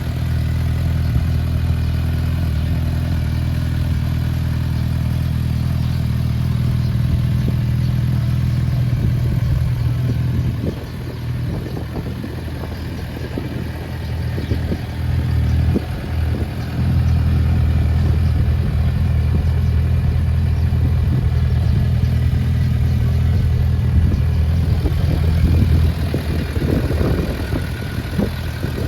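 Suzuki GSF650S Bandit's 656 cc inline-four engine running through a Black Widow aftermarket exhaust with its dB killer fitted, holding a steady low note. About ten seconds in the note drops away for several seconds into an uneven rumble, then comes back steady, turning uneven again near the end.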